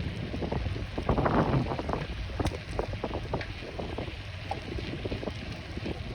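Wind buffeting the microphone during a ride, a steady low rumble with scattered knocks and rattles and a louder gust about a second in.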